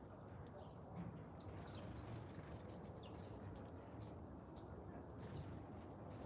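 Small birds chirping: a few short, high, scattered chirps, faint over a steady low background rumble.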